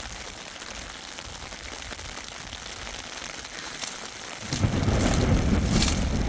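Steady hiss of rain. About four and a half seconds in, a loud low rumble of wind buffeting the microphone sets in over it.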